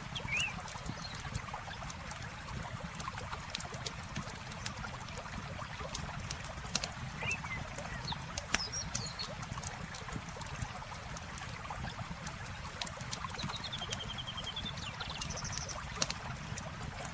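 Campfire crackling, with irregular sharp pops, over the steady rush of flowing river water. Birds chirp a few times, with a quick run of notes near the end.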